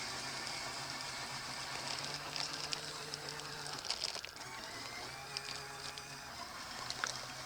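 Small electric motor of a LEGO RC boat running with a steady hum that drops slightly in pitch about four seconds in, over a noisy hiss of water with scattered small splashes and ticks.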